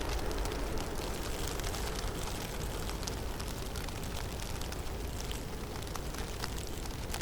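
Wind rushing through a snowy forest in a heavy snowstorm: a steady rush with a deep low rumble, dotted with scattered light ticks.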